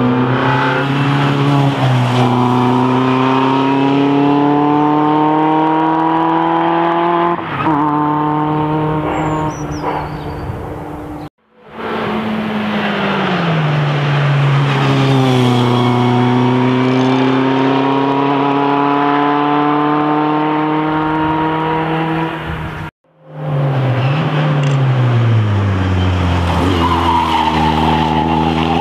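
Formula Opel Lotus single-seater race car engine at full throttle, its pitch climbing steadily under load with a brief dip at a gear change. Twice the sound cuts off abruptly, and each time it returns with the revs dropping before climbing hard again.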